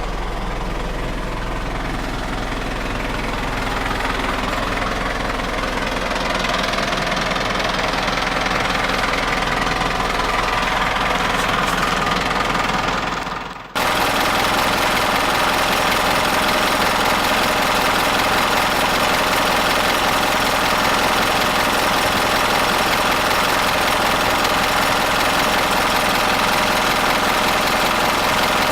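Diesel engine of a 2006 Hino Dutro garbage truck running steadily at idle. The sound breaks off for a moment about halfway through, then carries on unchanged.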